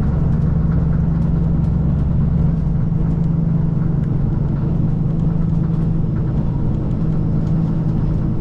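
KiHa 185 series diesel train running, heard on board: a steady low engine drone under a constant rumble from the wheels and rails. The deepest part of the rumble eases off about two and a half seconds in.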